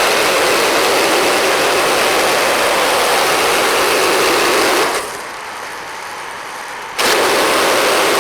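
Portable band sawmill running under load as its blade cuts through a black walnut log. The noise is loud and steady, falls back for about two seconds after the middle, then returns at full level.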